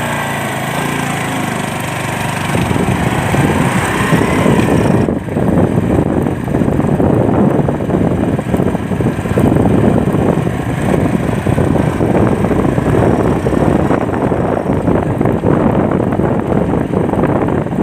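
Motorcycle running on the move, engine sound mixed with wind rushing over the microphone, the wind buffeting growing heavier about five seconds in.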